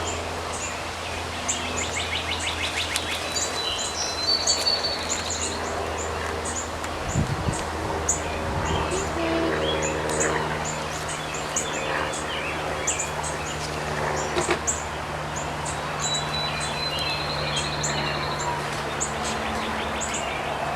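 Small birds chirping over and over, with a fast trilled song twice, over a steady low hum and a few soft knocks.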